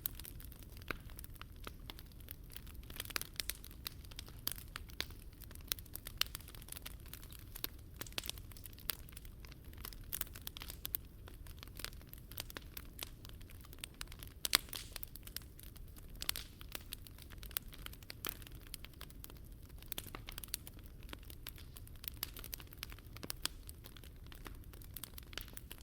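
Wood fire crackling and popping in a Picogrill fire pit: a dense run of irregular sharp cracks over a steady low rush, with one louder pop about halfway through.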